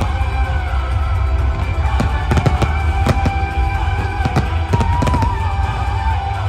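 Fireworks going off in many quick, irregular bangs and crackles, over loud music with held notes and a steady deep bass.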